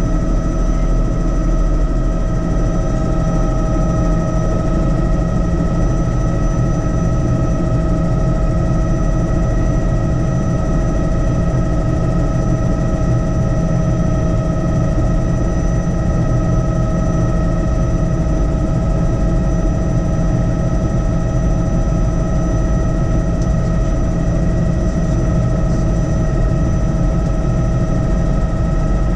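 Helicopter in flight: a steady, loud drone of rotor rumble with a constant high turbine whine over it.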